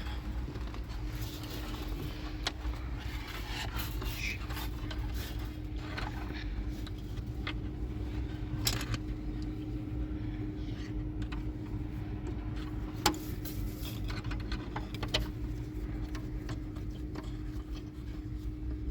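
A motor running steadily with a constant low hum, and scattered clicks and knocks on top, the sharpest about two-thirds of the way through.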